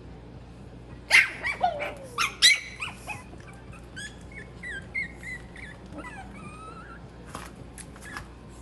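Maltese puppies yelping and whining in high squeaks with sliding pitch. A loud cluster of yelps comes about a second in, followed by softer, shorter squeaks that fade out after about six seconds.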